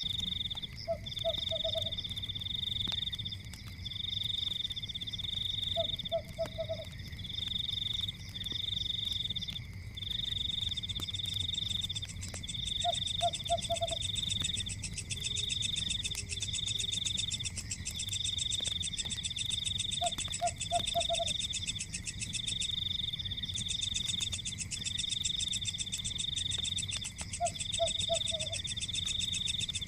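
Night chorus of frogs and insects: a high trill repeating in phrases of about a second with short gaps. A faster, higher insect buzz joins about twelve seconds in, and a short low croak of three or four pulses comes about every seven seconds.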